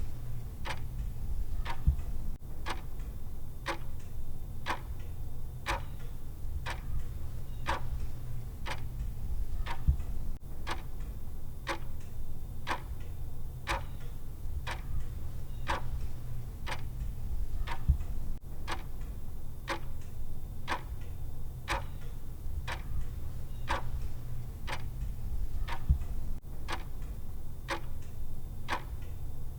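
Countdown-timer clock tick sound: evenly spaced, sharp clock ticks over a steady low hum, with a soft low thump about every eight seconds.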